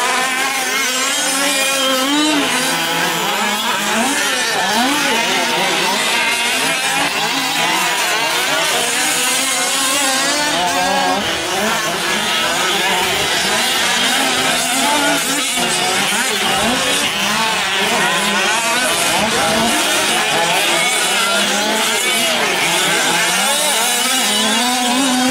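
Several 1/5-scale gas RC trucks racing, their small two-stroke engines revving up and down. Many overlapping engine whines rise and fall without a break.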